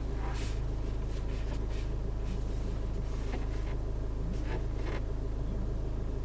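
Steady low hum inside a car's cabin, with a few light clicks and rustles of handling scattered through it.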